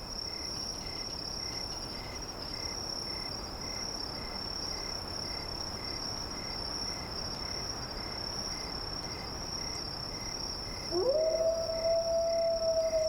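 Crickets trilling steadily over a soft wind-like hiss, with a slower pulsing chirp beneath. About eleven seconds in, a wolf howls once: the howl rises quickly, holds a steady pitch, then begins to slide down.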